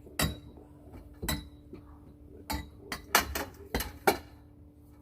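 A series of sharp clinks and knocks of hard objects being handled, about eight in all, the loudest a little past three and four seconds in, over a faint steady hum.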